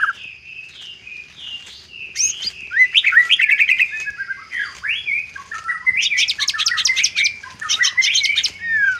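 White-rumped shama singing a long, varied song of whistled and slurred notes, soft at first and louder from about two seconds in, with fast rattling trills near the end.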